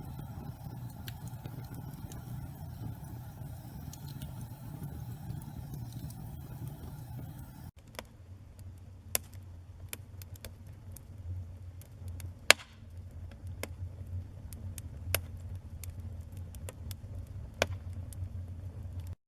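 Wood fire burning in a fireplace: a steady low rumble of flames with scattered crackles and sharp pops, one loud snap about two-thirds of the way in. The sound changes abruptly about eight seconds in, where one fire recording is spliced to another.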